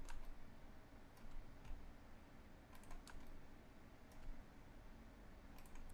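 Faint, scattered clicks of a computer keyboard and mouse: a few single clicks and short clusters.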